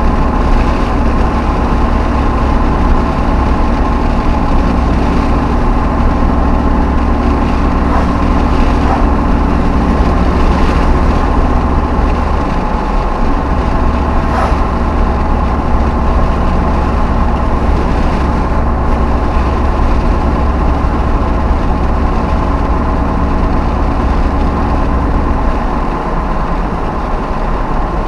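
V8 Hemi pickup truck engine and exhaust running steadily, with the low engine note shifting about halfway through and again near the end.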